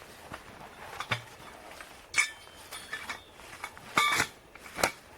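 A handful of separate clinks and knocks of hard objects, some with a short metallic ring, over faint background hiss.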